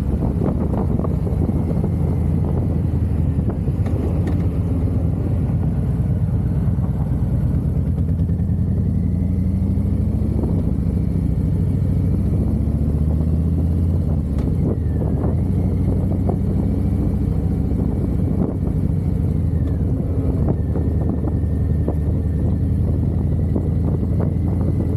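Harley-Davidson V-twin motorcycle engine running under way, its low pulsing exhaust note rising and falling in pitch as the speed changes.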